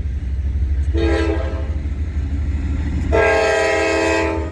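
Diesel freight locomotive's horn: a short blast about a second in, then a longer, louder blast about three seconds in, over a steady low rumble.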